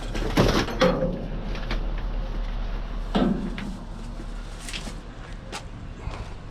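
Several separate knocks and clunks of scrap being handled and loaded, the loudest about half a second in and about three seconds in, over a steady low hum.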